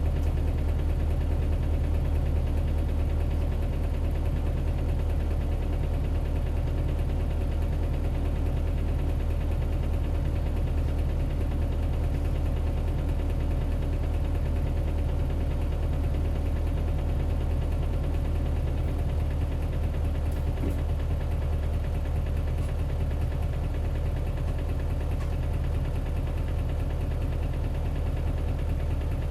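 Isuzu 8PE1-S V8 diesel engine of an Isuzu Cubic KC-LV280L bus, heard from inside the bus, running at steady revs with an unchanging pitch and a low rumble.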